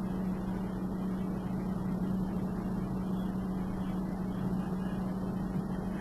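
Steady background hum with a low drone and an even rushing noise, like a running machine or fan, unchanging throughout.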